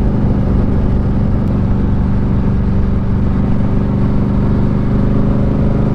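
Motorcycle engine running at a steady cruise, a constant drone under a steady rushing noise.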